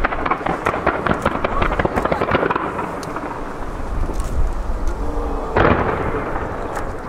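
Digital star mine fireworks fired in rapid, computer-timed volleys: dense cracks and bangs over a low, thunder-like rumble of echoing booms. The firing eases briefly, and a fresh burst of reports comes about five and a half seconds in.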